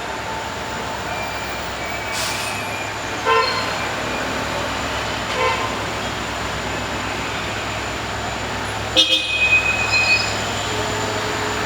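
Vehicle horns tooting in short blasts over a steady rumble of traffic, the loudest a quick run of honks about nine seconds in.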